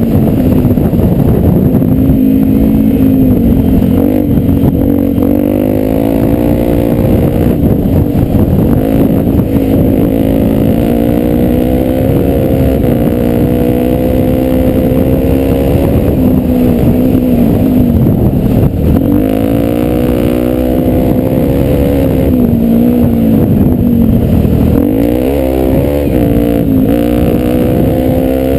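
Enduro motorcycle engine running under a varying throttle, its pitch rising and falling repeatedly, with several dips where it eases off, around 4, 18 and 25 seconds in. A heavy rumble of wind and riding noise lies underneath.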